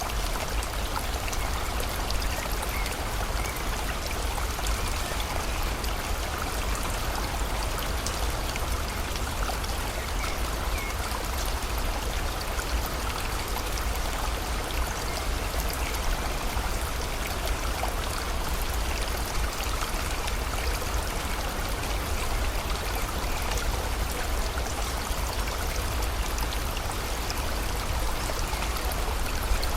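Steady rain falling together with a flowing river: an even rush of water with many fine drop ticks and a deep low rumble underneath.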